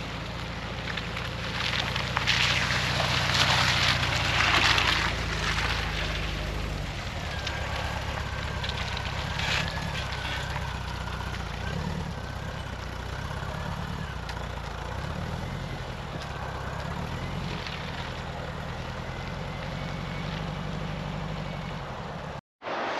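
1991 VW Vanagon Synchro's water-cooled flat-four engine running as the van drives, a steady engine hum under road noise, louder from about two to five seconds in. The sound drops out abruptly for a moment near the end.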